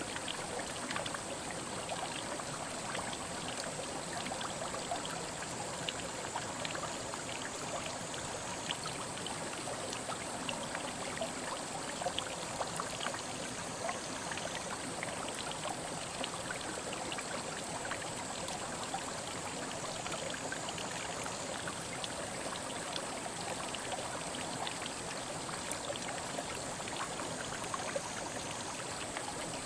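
Mountain headwater stream babbling over rocks: a steady rushing wash of water, flecked with small splashes and trickles. A thin, steady high-pitched tone sits above the water throughout.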